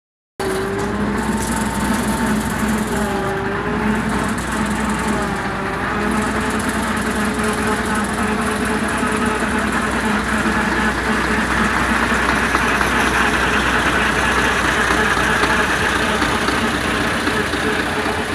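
An engine running steadily at idle, its pitch wavering slightly.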